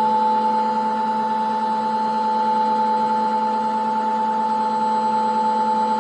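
Siemens front-load washing machine running in its spin cycle: a steady motor whine with a constant pitch and no change in speed.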